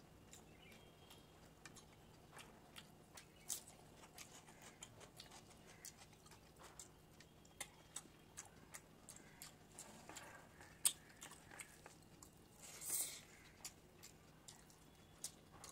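Faint, close-miked eating sounds: a man chewing fish curry and rice taken by hand, with many small wet mouth clicks and smacks. The sharpest click comes about eleven seconds in, and a longer, louder wet sound about thirteen seconds in.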